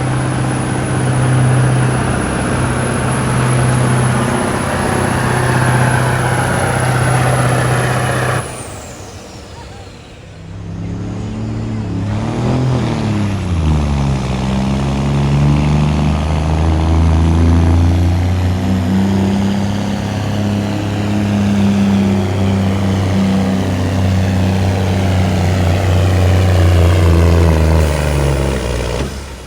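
Pulling vehicle's engine running hard at full power with a high whine. It cuts off abruptly about eight seconds in. A few seconds later a second run starts, the pitch climbing and wavering before it holds steady, then it drops away just before the end.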